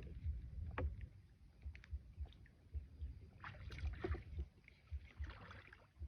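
A small wooden boat paddled on still water: paddle splashes and water sloshing, with scattered knocks and bumps against the hull.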